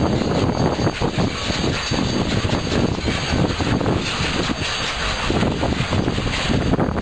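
A steam locomotive and a coupled diesel locomotive passing close by: a loud, steady rumble of the diesel's engine and the rolling train.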